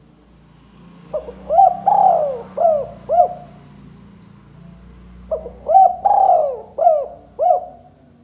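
Spotted dove (tekukur) cooing: two phrases of about five low, arched coo notes each, with a pause of about two seconds between them. This is the call played to lure wild tekukur.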